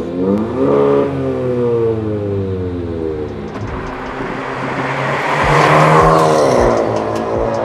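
Hyundai Kona N-Line four-cylinder through an XForce VAREX valved cat-back exhaust, accelerating: the note rises, sags back, then climbs to its loudest about six seconds in before easing off.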